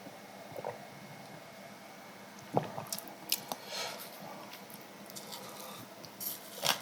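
Faint eating sounds: a person chewing, with a few light clicks and taps from a spoon or dishes, clustered in the middle.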